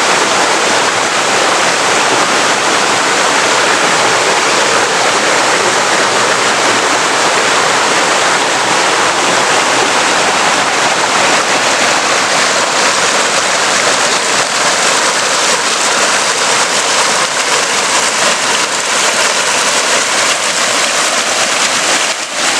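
Steady rush of water from a small waterfall, its low end thinning a little about halfway through.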